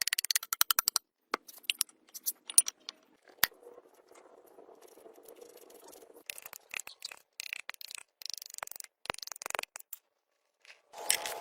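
Small hard objects clicking and rattling in quick, irregular taps, with a soft scraping stretch in the middle.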